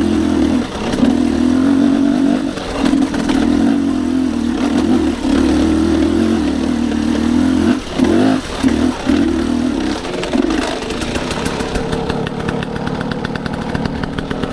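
Dirt bike engine working hard up a climb, the throttle opening and closing in surges with a few quick blips, then dropping to a steadier, lighter idle about ten seconds in as the bike stops.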